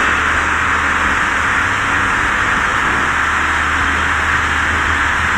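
A machine running steadily: an even, unchanging hiss with a low hum underneath.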